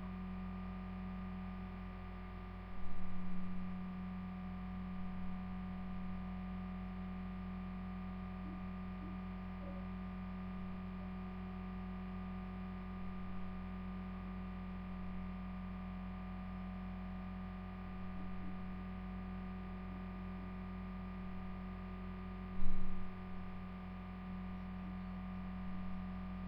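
Steady electrical hum with a strong low tone and a ladder of higher overtones, with two brief low knocks about three seconds in and near the end.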